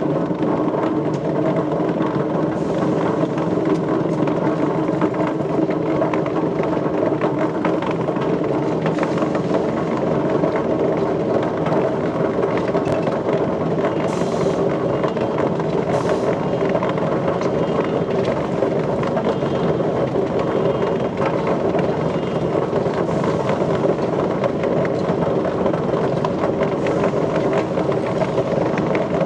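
Steady, loud machine noise running without a break.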